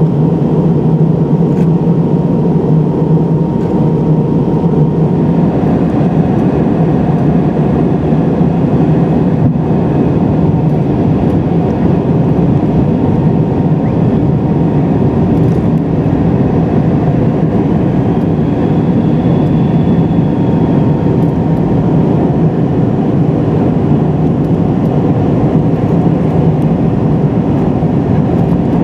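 Steady cabin noise of an MD-83 airliner in flight: rushing air and the hum of its rear-mounted turbofan engines, with a thin steady whine that fades out and comes back.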